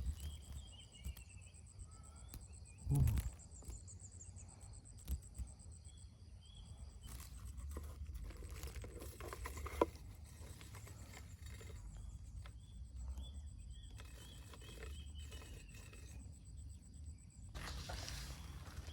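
Insects trilling in the background, a steady high-pitched, fast-pulsing buzz, with faint short falling chirps now and then. There is a low thump about three seconds in, over a low rumble.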